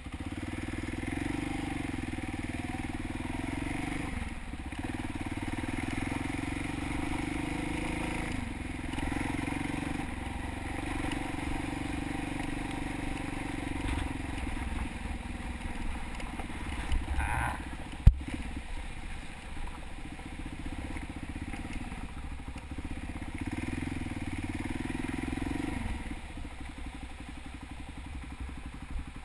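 Honda XR650 single-cylinder four-stroke motorcycle engine running under way, its note climbing and dropping back several times as the throttle opens and closes. A single sharp knock comes about eighteen seconds in.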